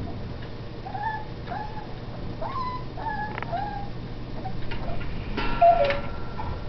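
An animal's short high cries, about six in a row, each slightly falling in pitch, over a steady low wind rumble. Near the end comes a rattling clatter, the loudest sound, with a ringing tone that lingers after it.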